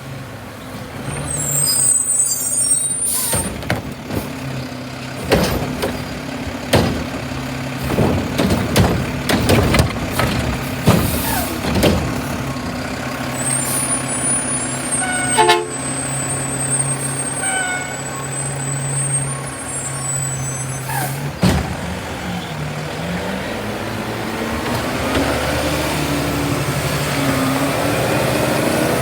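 Republic Services garbage truck's diesel engine running steadily, with a string of sharp knocks and bangs over the first twelve seconds or so. There is a high hiss of air about one to three seconds in and again from about fourteen to twenty seconds, and the engine speeds up near the end.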